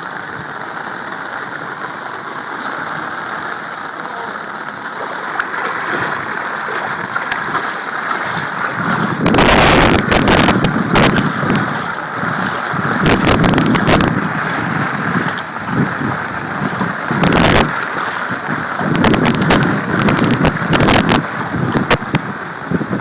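Steady hiss of heavy rain. From about nine seconds in, loud irregular gusts of wind buffet the microphone.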